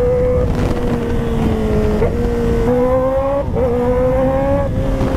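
Kawasaki ZX-10R's inline-four engine running at highway speed over a low rush of wind. Its note sags slowly, then steps up in pitch a little over halfway through.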